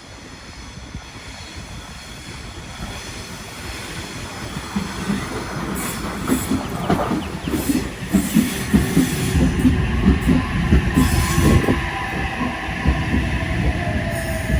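A train approaching and running past, growing steadily louder, with wheels clattering over the rail joints and a high squealing tone that sinks slightly in pitch in the second half.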